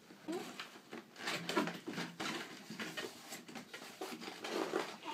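A toy's cardboard box and plastic packaging being opened by hand: irregular rustling, scraping and light tapping.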